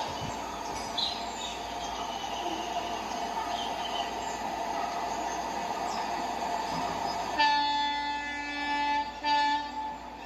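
Indian Railways passenger train running with steady rumble and rail noise, then about seven seconds in the WDP4 diesel locomotive's horn sounds twice: a long blast followed by a shorter one.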